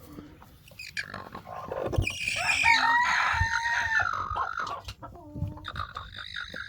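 Chicken calling: one loud, drawn-out call lasting about two seconds, then a shorter call near the end.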